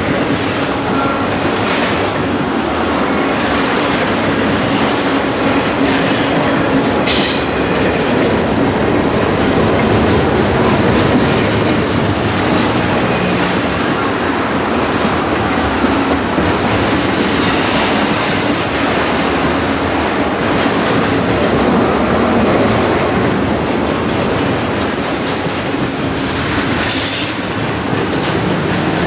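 Railway cars rolling past at speed, wheels clattering steadily on the rails, with brief high wheel squeals a few times.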